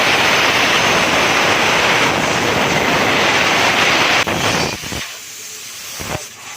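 Fuji Star small gasoline engine that has been refusing to start catching with a few pops and running loud and raspy for about four seconds, then dying away.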